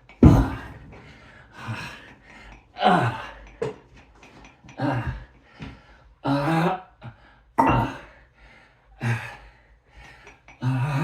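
A man grunting and gasping with effort through a set of heavy exercise repetitions, about eight short falling grunts, one every second or two. There is a sharp thump right at the start.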